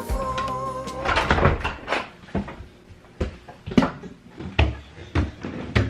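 Background music ends with a held note in the first second, followed by a series of irregular knocks and clunks from objects being handled.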